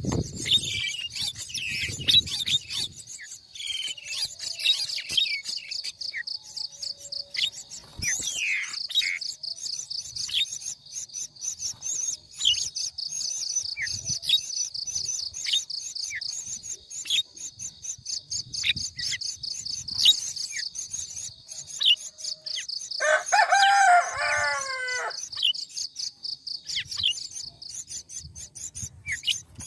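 Outdoor bird ambience: scattered short bird chirps over a steady, rapidly pulsing high insect trill, with a rooster crowing once for about two seconds near the end.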